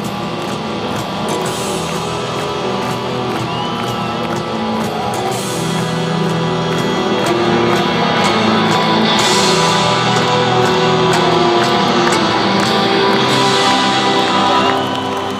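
Live rock band playing at full volume: electric guitars, bass and drums with crashing cymbals, as heard from the crowd in an arena. The music swells slightly louder in the second half, then drops near the end.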